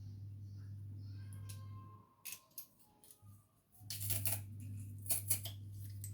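Garlic being squeezed in a garlic press: a series of sharp clicks and crunches, the densest a little past the middle. A low steady hum runs underneath and stops for about two seconds midway.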